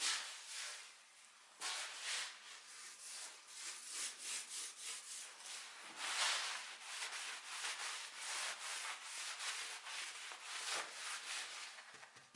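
Hand sanding or abrasive rubbing on a wooden surface: quick back-and-forth strokes, several a second, with a brief pause about a second in.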